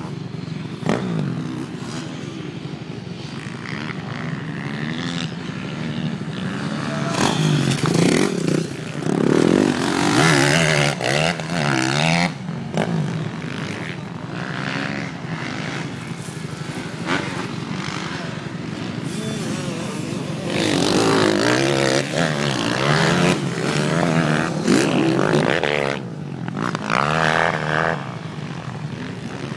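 Motocross bike engines revving up and down as the bikes ride past, with two louder stretches: one about a quarter of the way in and another in the last third.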